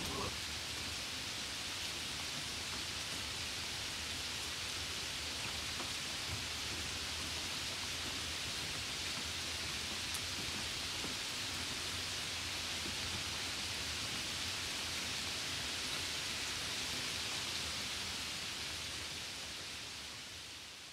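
Steady rain, an even hiss with no distinct drops, fading out near the end.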